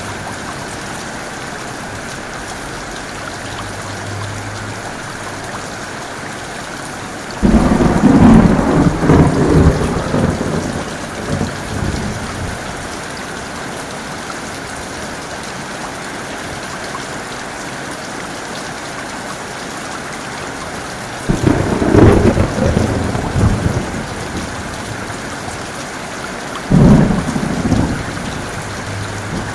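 Steady heavy rain with three sudden thunderclaps, about seven seconds, twenty-one seconds and twenty-seven seconds in. Each rumbles away over a few seconds, the first longest.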